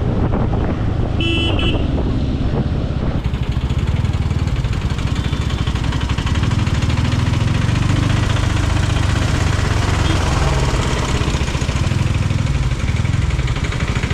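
Motorcycle engine running steadily under way in traffic, with a short horn toot about a second in.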